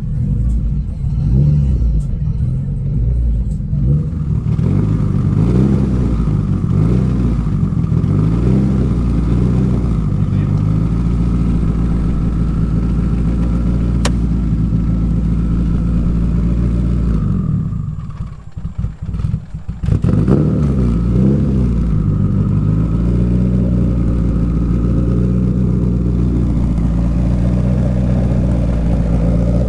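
Car engine idling with a few light blips of the throttle near the start and again about two-thirds of the way through; the sound drops out briefly just before the second set of blips.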